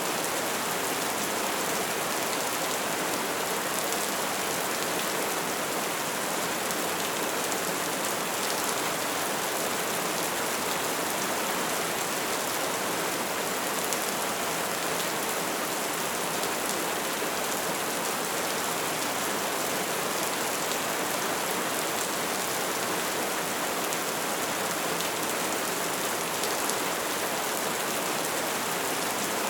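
Bonfire burning with a steady, dense crackle of flames.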